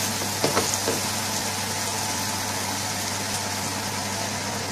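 Sliced onions and garlic sizzling in ghee in an aluminium frying pan, with a wooden spoon scraping against the pan a few times in the first second. A steady low hum runs underneath.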